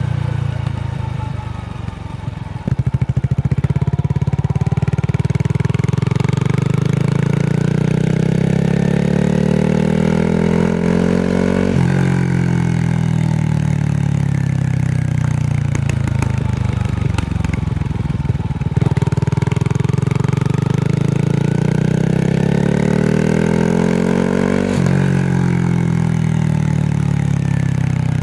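Honda Rebel 250's single-cylinder engine running loud through its exhaust. Its pitch climbs steadily and then drops abruptly, twice over.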